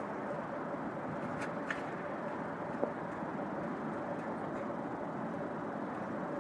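Steady rushing background noise with a faint steady hum and a few faint clicks.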